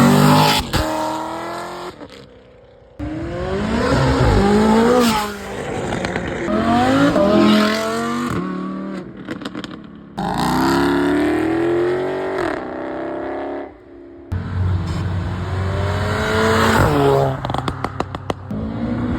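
High-performance car engines, one after another, revving hard and accelerating away. Each climbs in pitch and drops back at each upshift, with bursts of exhaust crackles and pops between pulls.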